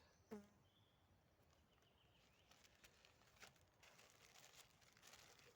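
Near silence: faint rustling and small clicks of gear being handled and sorted.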